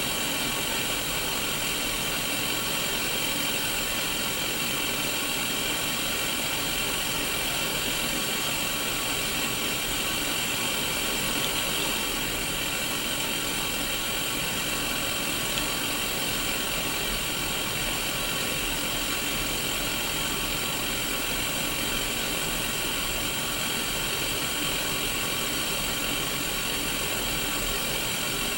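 Static hiss from an untuned Sony Mega Watchman black-and-white pocket TV: a steady, bright white noise with faint steady tones running through it.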